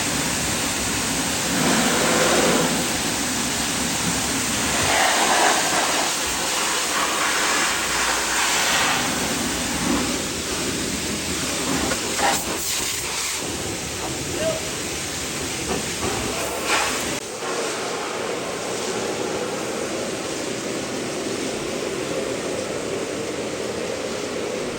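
Pressure washer spraying water in a steady rush, with a couple of sharp clicks partway through.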